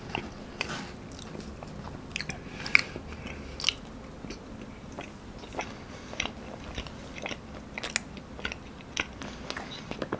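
Close-miked chewing of a soft, sticky strawberry rice cake (chapssaltteok), with irregular wet smacks and clicks of the mouth.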